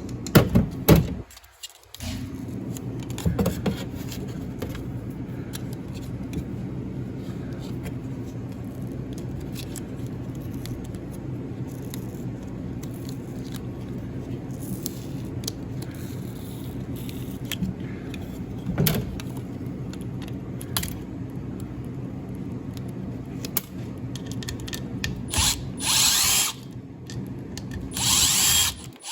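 A small electric motor runs steadily, with scattered clicks and rattles of tool work on a refrigeration controller. Near the end come two brief, louder, hissing whirs.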